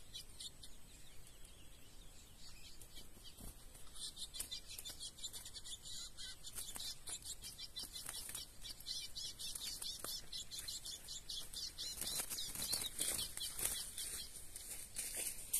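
Small birds chirping in quick high notes while a wild bird's wings flap against a bird-cage trap as it is caught; the chirping and flapping grow busier over the last few seconds.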